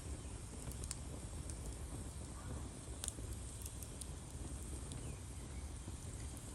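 Campfire embers crackling faintly a few times over a steady low rumble.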